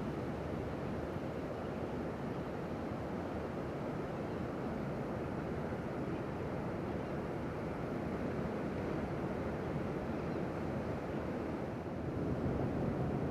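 Steady rush of ocean surf, with wind noise on the microphone, a little louder near the end.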